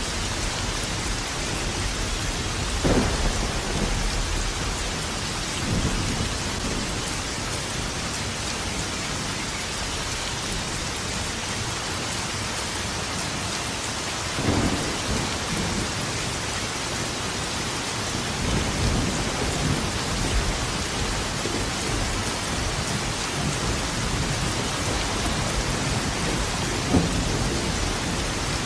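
Thunderstorm: steady heavy rain with thunder, sharp cracks a few seconds in, about halfway and near the end, and low rumbling between them.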